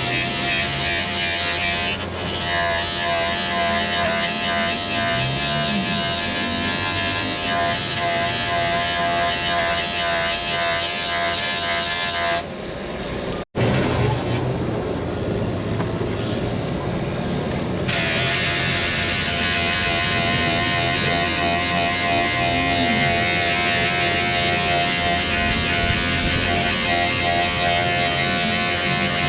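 A small electric power tool running steadily with a constant whine. It breaks off sharply about thirteen seconds in and sounds duller for a few seconds after.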